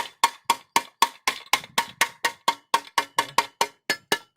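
Rapid, evenly paced metal knocks, about four a second, each ringing briefly: the motorcycle silencer being struck over and over to shake loose carbon and dirt from inside it.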